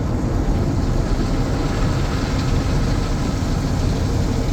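Steady noise of an express tunnel car wash heard from inside the car, with water spray and wash equipment running over the vehicle.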